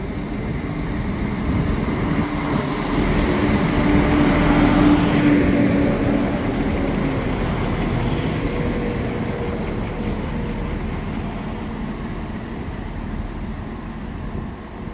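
A train passing, its engine noise swelling to a peak about four to five seconds in and then slowly fading.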